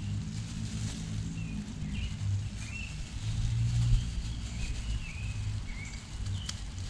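Several short bird chirps over a steady low rumble.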